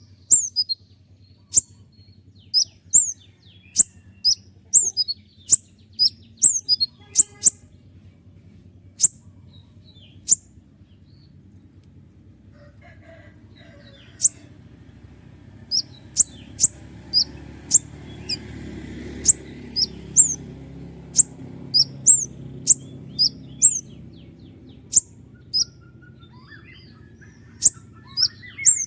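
Konin (kolibri ninja sunbird) calling with short, sharp, very high chirps in quick runs, the "tembakan" shot calls. The calls pause for a few seconds after about ten seconds and resume from about fourteen seconds. A faint low hum sits underneath.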